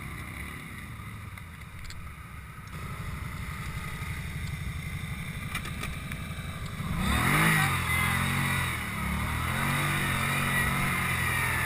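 ATV engine running at low revs, then revved up about seven seconds in, rising in pitch and getting louder, and held at higher, uneven revs.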